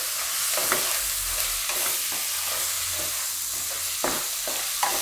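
Vegetable masala of onion, capsicum and tomato sizzling in a kadai as a metal spatula stirs it, scraping and tapping against the pan in a few irregular strokes over a steady frying hiss.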